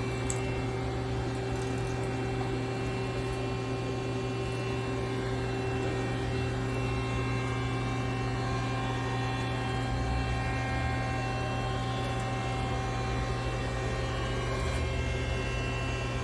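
Steady machine hum with several fixed tones and no change, typical of a powered-up CNC horizontal machining center with its hydraulic unit and coolant pumps running.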